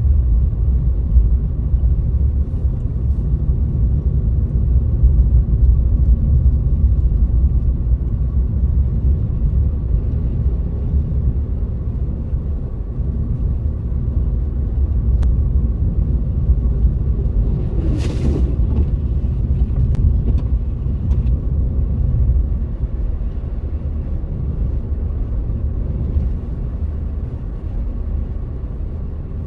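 Steady low rumble of a car driving, tyre and road noise heard from inside the vehicle through a dashcam, with a brief hiss a little past halfway.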